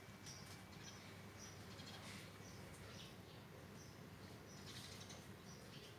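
Quiet background with faint, short high bird chirps repeating every half second or so, over a low steady hum.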